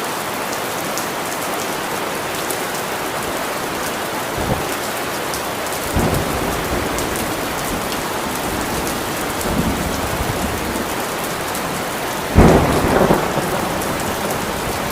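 Steady rain falling, with thunder: a few low rumbles, and the loudest a sudden clap about twelve seconds in that rolls off over a second or so.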